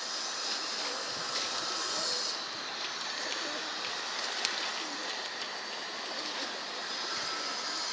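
Domestic pigeons cooing softly, with a few faint clicks over a steady background hiss.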